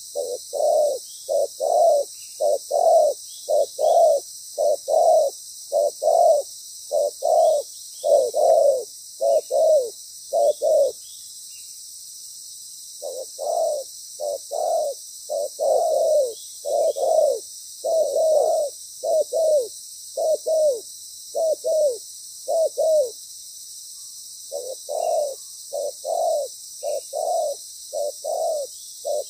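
Spotted dove cooing: three long runs of repeated low coos, a little under two notes a second, each run separated by a pause of one to two seconds.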